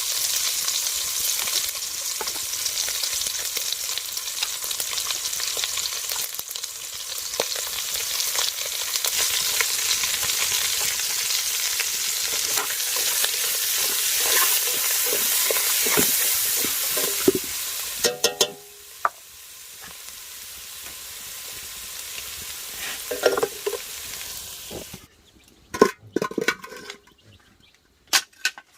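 Food sizzling as it fries in a pan, with occasional clicks of a utensil stirring it. About eighteen seconds in the sizzle drops away sharply to a faint hiss, and near the end there are a few sharp knocks.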